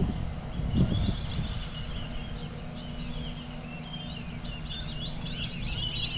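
A flock of small birds chirping, many short calls overlapping and growing busier through the second half. A steady low rumble runs underneath, with a brief low thump about a second in.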